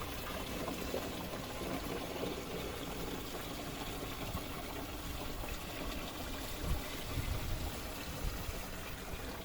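Water pouring steadily into the spray tank of a DJI T50 agricultural drone as the tank is filled.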